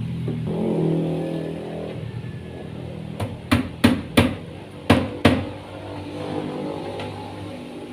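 Hammer blows on wood, about six sharp strikes in two quick runs in the middle, as in nailing. A low drone fades out in the first couple of seconds.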